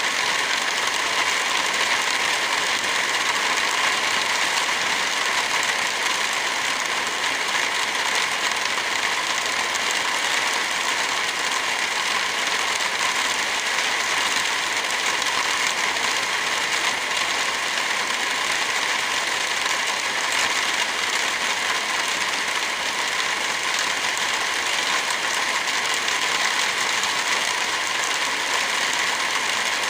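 Heavy rain falling steadily: an even hiss with no thunder and no distinct drops standing out.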